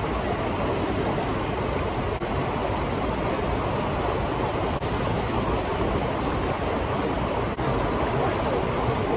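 Steady rushing of water from a small waterfall, an even wash of noise that dips for an instant three times.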